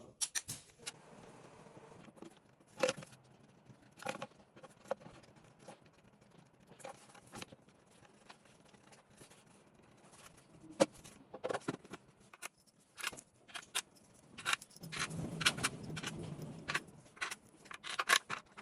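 Metal tools and engine parts being handled: scattered sharp clicks, clinks and knocks, with a rougher scraping stretch about fifteen seconds in.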